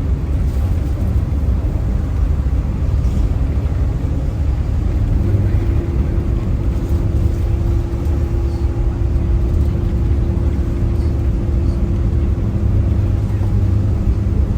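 Steady engine and travel rumble inside a moving vehicle's cabin. A steady hum joins in about five seconds in and holds.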